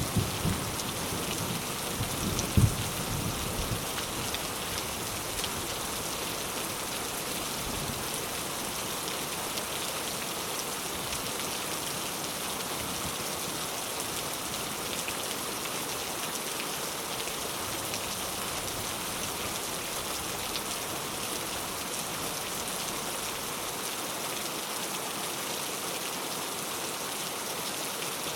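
Heavy rain falling steadily, an even hiss of drops on surfaces. In the first few seconds a low rumble of thunder dies away, with one sharp low thump.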